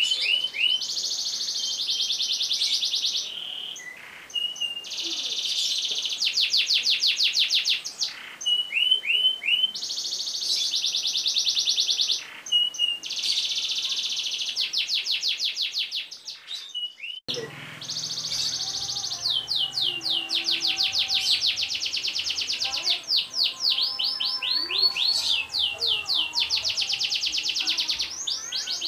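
Domestic canary singing long, fast rolling trills, one rapid roll running straight into the next with short chirping notes between. The recording cuts abruptly about two-thirds through and the song carries on over a faint low hum.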